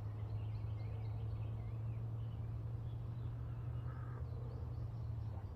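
Birds calling faintly over a steady low hum.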